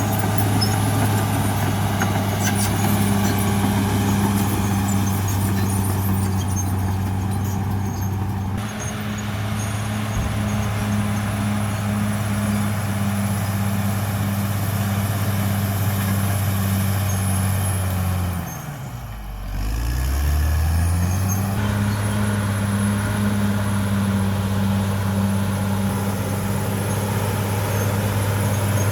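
CAT D6R XL bulldozer's diesel engine running steadily under a high whine; about two-thirds of the way through the engine speed drops sharply and then climbs back up within a couple of seconds.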